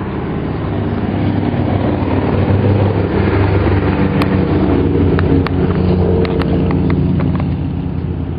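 A motor vehicle's engine runs close by, growing louder over several seconds and then easing off. A few sharp clicks sound around the middle.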